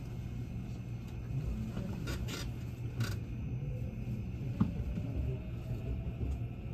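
Low, steady rumble inside a Haruka limited express train car, with a few brief scrapes and clicks two to three seconds in and a sharp knock about halfway through.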